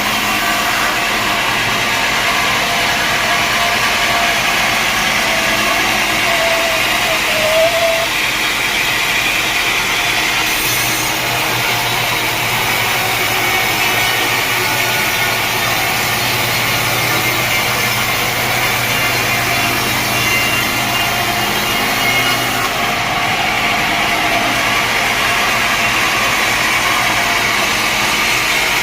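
Sawmill saw running steadily through mahogany timber, a continuous dense cutting noise over machinery hum.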